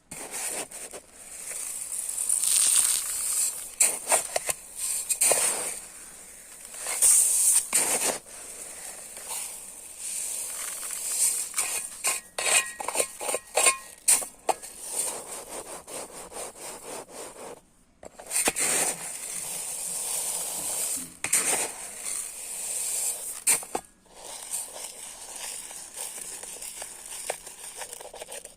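Dry rice grains being scooped and poured: a hissing rush of grains streaming down in runs of a second or two, between stretches of clicking and pattering as grains land and are scooped.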